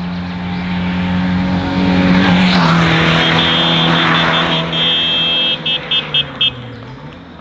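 Hillclimb race car passing at speed, its engine note swelling to its loudest a couple of seconds in and falling slightly in pitch as it goes by. From about three seconds in, a run of short, high-pitched electronic beeps sounds over it.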